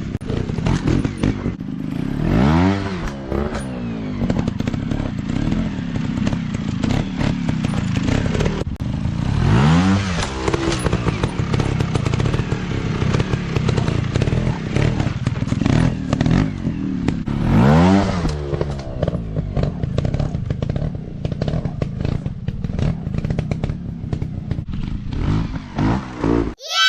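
Dirt bike engine running, revved up and let back down three times about eight seconds apart, with clattering knocks throughout.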